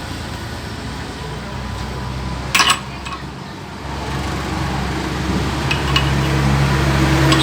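Workshop noise: a single sharp metallic clank about two and a half seconds in, then a steady low machine hum that grows louder toward the end.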